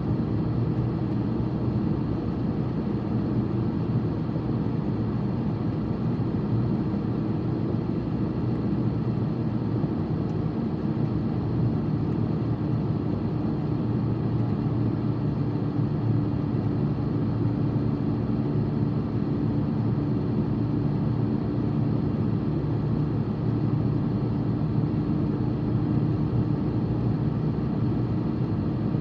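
Steady road and engine noise of a car in motion, heard from inside the cabin: an even low rumble with faint steady hums.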